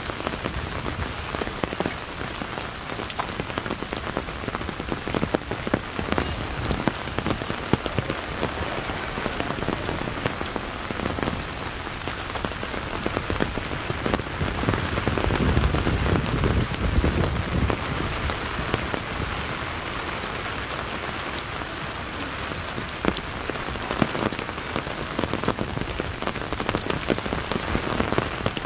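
Steady rain falling, a constant hiss dotted with many close, sharp drop strikes. A low rumble swells briefly about halfway through.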